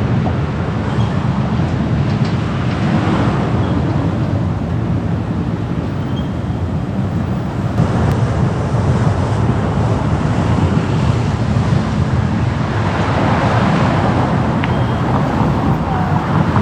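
Steady road and traffic noise of a car driving through city streets, with a low rumble and wind on the microphone. The noise swells louder about three seconds in and again near the end.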